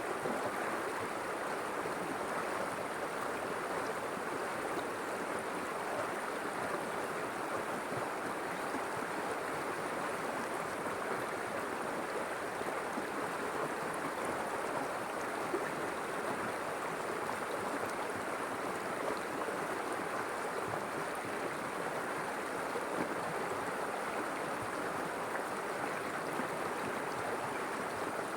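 River water flowing and burbling steadily.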